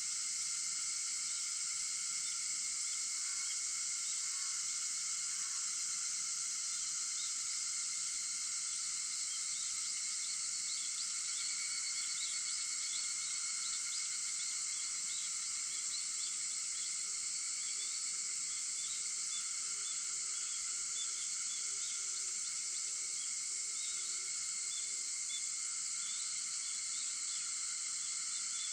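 Cicadas calling in a steady, dense chorus with unchanging level. Faint short chirps come through from about ten seconds in.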